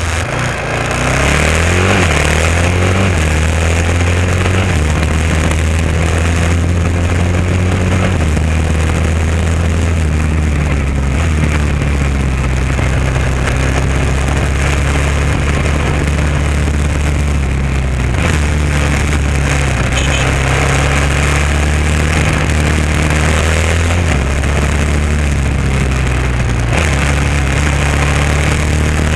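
Honda XR650R's single-cylinder four-stroke engine under way, its note climbing and dropping in steps with throttle and gear changes.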